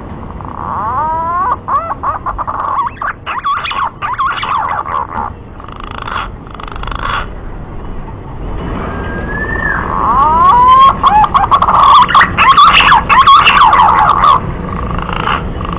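Male green pigeon (punai) calling: bouts of wavering, warbling whistles that bend up and down in pitch, with a single rising-and-falling whistle between them, the second bout louder. A steady hiss runs underneath.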